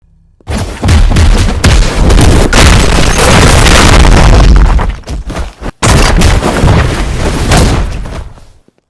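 Extremely loud, distorted booming noise across the whole range from deep bass to hiss, in two long stretches: the first about five seconds long, then after a brief break a second that fades away near the end.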